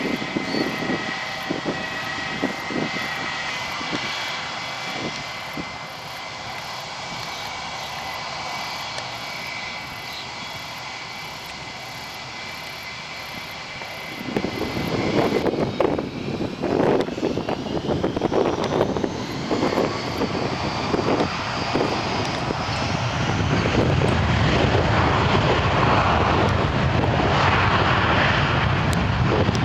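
Jet airliner engines with a steady whine. About halfway through they spool up: a whine rising in pitch, then a loud rumble that keeps building to the end. Wind buffets the microphone.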